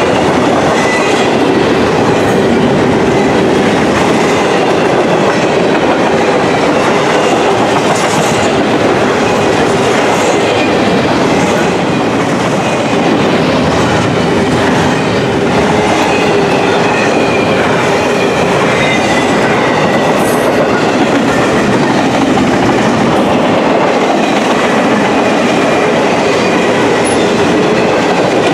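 Double-stack intermodal container cars of a freight train rolling steadily past: a loud, continuous rumble of steel wheels on the rails with clattering over the track.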